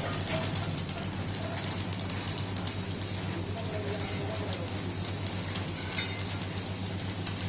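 Electric arc welding on steel crackling and sizzling steadily over a low, even hum, with one sharper crack about six seconds in.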